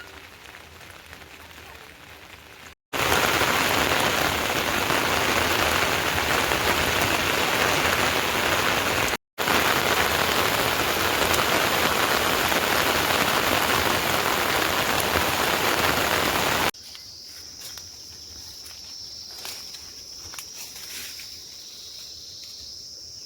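Heavy rain falling steadily, heard in several separate takes with abrupt cuts between them. The middle stretches are loud, while the first and last are quieter. The last take adds a steady high-pitched whine and scattered drips.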